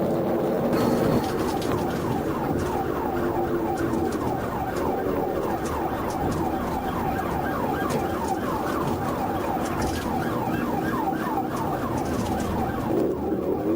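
Police car siren on a fast yelp, its pitch sweeping about four times a second, starting about a second in, over steady engine and road noise from the pursuing patrol car.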